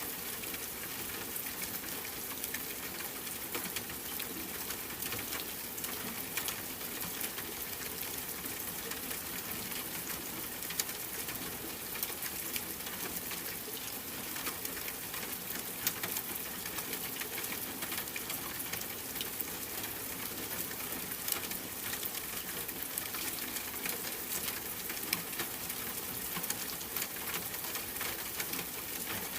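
Steady water-like white-noise ambience, an even hiss with faint scattered crackles, like rain or water.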